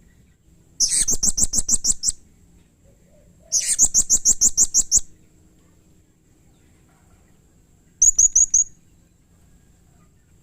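Blue-crowned hanging parrot (serindit) calling in three bursts of rapid, high-pitched chirps at about eight a second: two runs of over a second each, then a short run near the end.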